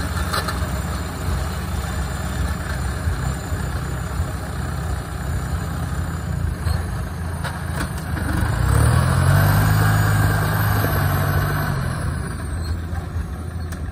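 Diesel engine of a tracked rice combine harvester running steadily, revving up about eight seconds in, holding higher and louder for a few seconds, then easing back down.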